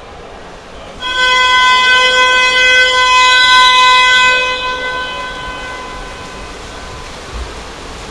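Water polo game horn sounding one long, steady electronic blast of about three seconds, starting about a second in and then fading away.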